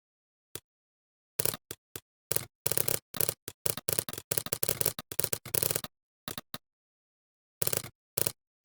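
Computer keyboard typing: irregular runs of quick keystroke clicks, densest in the middle, with a few scattered keystrokes near the end and silence between.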